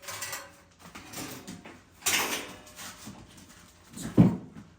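A heavy object being shifted by hand: a scraping rush about two seconds in, then a single loud thump near the end as it is set down or knocks against something.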